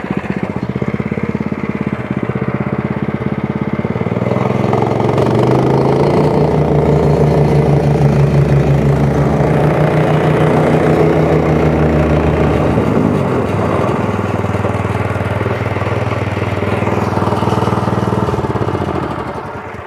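Small engine of a compaction machine running steadily, its sound growing stronger about four seconds in. It fades away near the end.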